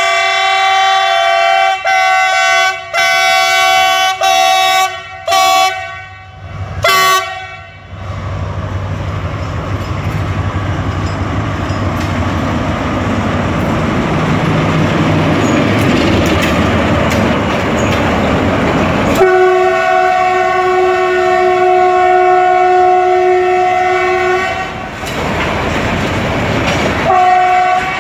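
CRRC Ziyang CDD6A1 diesel freight locomotive sounding a string of short horn blasts as it approaches, then its engine and the wheels of its boxcars rumbling past. About two-thirds of the way through it gives one long horn blast of about five seconds, and a short one near the end.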